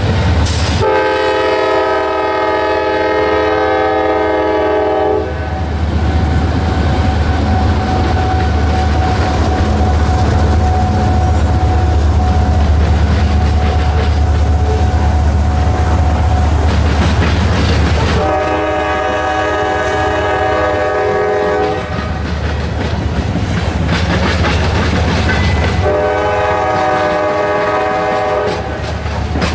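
Freight train's diesel locomotive sounding its multi-chime air horn three times: a long blast near the start, another about 18 seconds in, and a shorter one near the end. Underneath runs the steady low rumble of the locomotive and the wheels on the rails.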